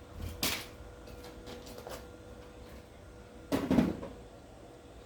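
A few light clicks and knocks, with one louder, duller knock about three and a half seconds in, over a faint steady hum.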